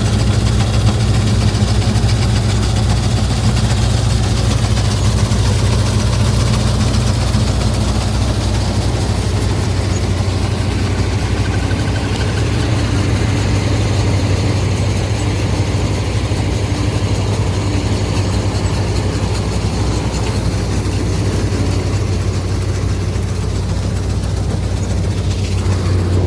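Combine harvester's diesel engine running steadily, a loud low hum with machinery noise above it.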